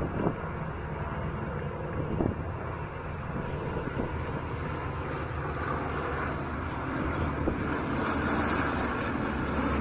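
Airplane engine noise: a steady rushing drone that grows louder toward the end.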